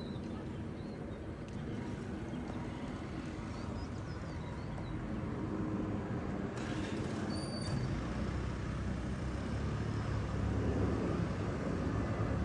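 Airbus A319 airliner's jet engines on approach to land, a steady low rumble growing gradually louder.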